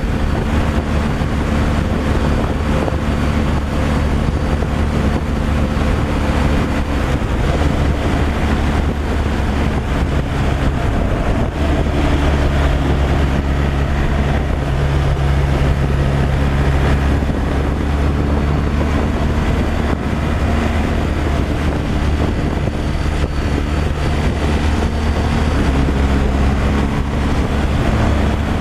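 Truck engine running at cruising speed with steady road and wind noise, a continuous low drone whose engine tone shifts in pitch about halfway through.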